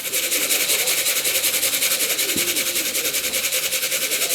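Tin of pigeon feed being shaken, the grain rattling in a fast, even rhythm of several shakes a second. It is the feeding call that draws the young pigeons back into the loft.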